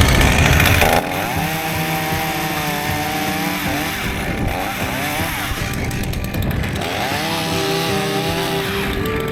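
Wind buffeting the microphone for the first second, then a chainsaw running and cutting, its engine pitch wavering up and down under load and holding steadier near the end, with background music underneath.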